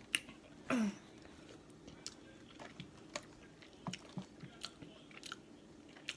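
Close-miked eating of a boiled crawfish: scattered wet clicks, smacks and crunches of biting and chewing. There is a sharp click just after the start and a brief sound falling in pitch just under a second in.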